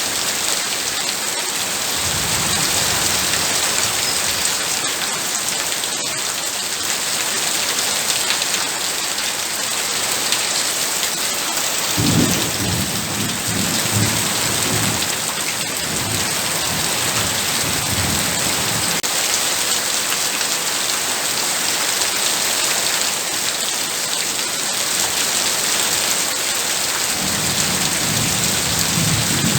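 Heavy, steady rain, with low thunder rumbling three times: softly a couple of seconds in, strongest and longest from about twelve seconds in for several seconds, and again near the end.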